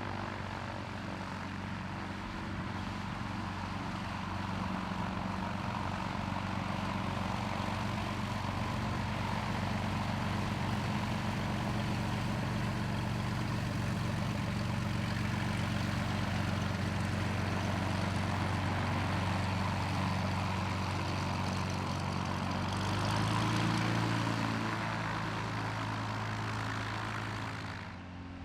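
A light propeller aircraft's piston engine running steadily at low power, swelling louder for a moment about five seconds before the end.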